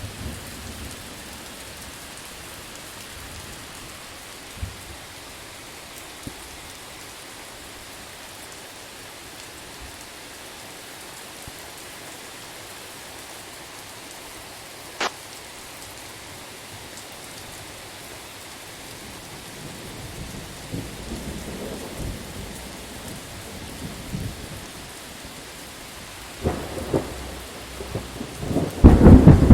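Steady heavy rain, with one sharp drop-like click about halfway through. Thunder starts rumbling low about two-thirds of the way in and builds to a loud, deep thunderclap at the very end.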